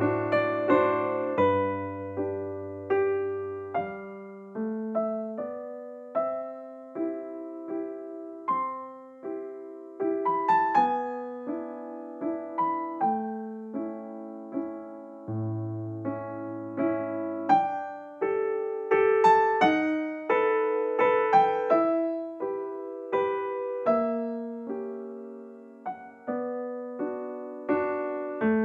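Background music: a slow, gentle solo piano piece, melody over sustained chords, each note struck and fading.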